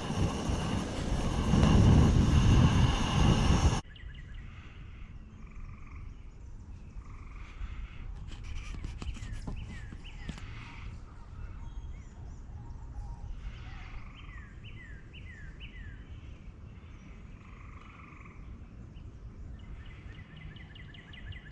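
Quiet woodland ambience with faint frog and bird calls, including a run of five short falling notes about two-thirds of the way through. It opens with a few seconds of loud rushing noise that cuts off abruptly.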